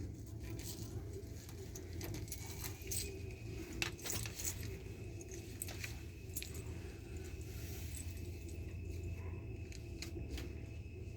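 Steady electrical hum of a Boeing 787 flight deck powered on battery, with a faint high whine that comes in about two seconds in and holds. Scattered light clicks and metallic jingles run over it.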